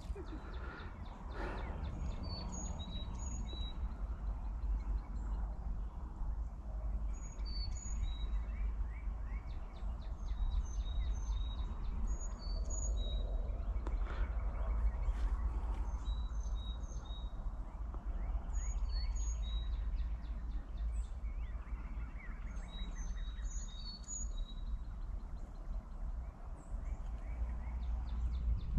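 Birds chirping in scattered groups of short, high notes over a steady low rumble.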